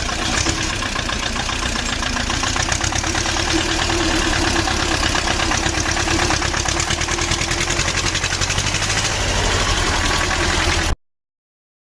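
A truck engine running steadily with a fast, even pulse, then cutting off abruptly near the end.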